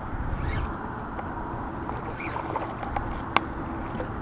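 Steady low rumbling noise of wind on the camera microphone, with a few faint ticks and one sharp click a little over three seconds in.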